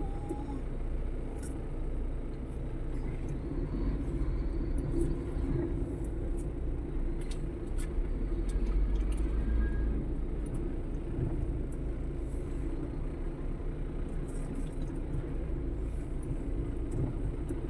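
A vehicle's engine and road noise running steadily as a low rumble, with scattered faint clicks and knocks.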